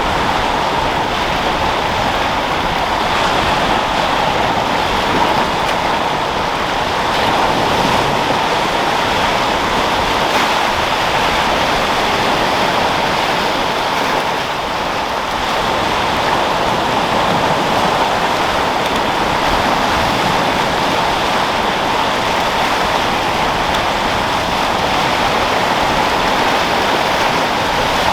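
Sea waves breaking and foaming with wind, a continuous steady rush of surf that dips slightly for a moment about halfway through.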